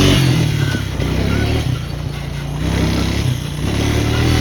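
Small off-road vehicle engine running as the machine rides along a trail. Its sound eases off about two seconds in and picks up again near the end.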